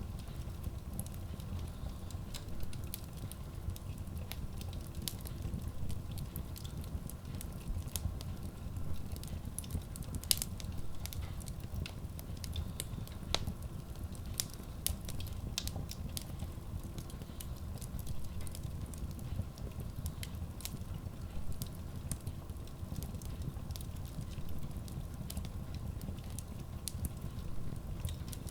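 Wood logs burning in a Kratki Koza K6 steel wood stove: scattered sharp crackles and pops over a steady low rumble.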